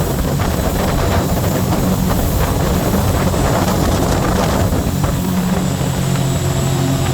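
The Scarab 165 ID jet boat's three-cylinder Rotax 1503 4-TEC engine running steadily, a low engine hum under a broad rush of noise.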